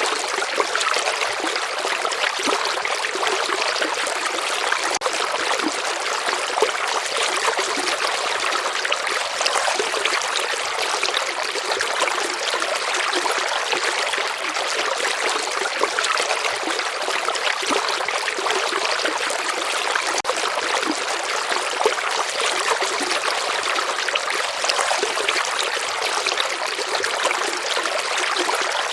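Steady flowing water of a stream or river, with small trickles and splashes, mostly in the middle and high range with little low rumble.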